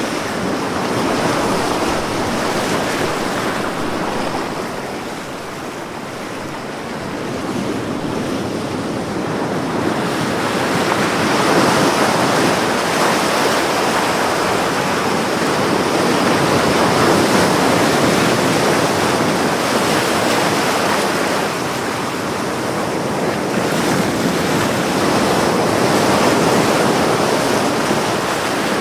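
Ocean waves breaking and washing up on a beach, a continuous surf that swells and ebbs over several seconds at a time.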